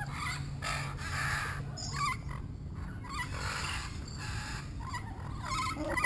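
Captive exotic birds calling: scattered squawks and short chirps, with a run of quick chirps near the end, over a low steady hum.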